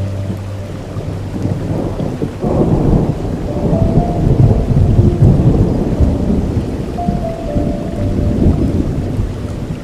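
Thunder rumbling over steady rain, building about two and a half seconds in and easing off near the end. A few soft music notes sit underneath.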